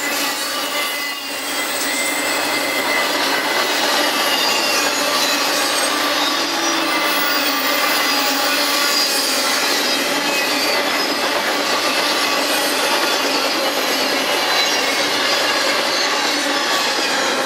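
CN intermodal freight train of double-stack container well cars rolling past at speed: a loud, steady rumble and clatter of steel wheels on rail, threaded with thin, high squeals from the wheels.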